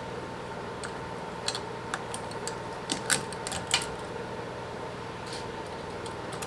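Scattered sharp clicks and light taps of a hose clamp and intercooler charge-pipe coupler being handled and fitted, the loudest about one and a half, three and nearly four seconds in, over a steady background hum.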